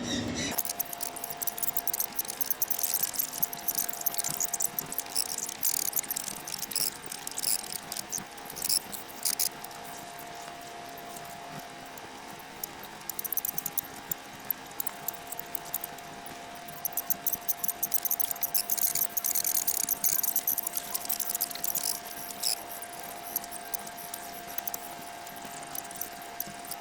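High-pitched chittering and clicking in bursts from baby budgies, sped up to a fast twitter, over a faint steady hum.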